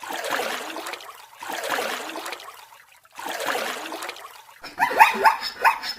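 Animal sounds: three long breathy huffs, then near the end a quick run of short, high yelping calls, about three a second.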